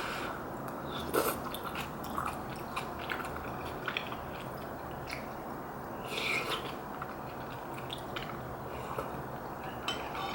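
Close-miked eating sounds: a person chewing soft rice cakes and dumplings from a soup, with scattered small mouth clicks and a couple of louder wet bites, about a second in and about six seconds in.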